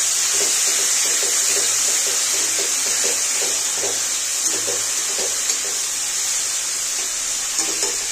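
Potatoes, tomatoes and spice paste sizzling steadily in hot oil in a kadai, with a spatula scraping and turning them in repeated strokes about twice a second. This is the masala being fried (kasha) just after it has gone into the pan.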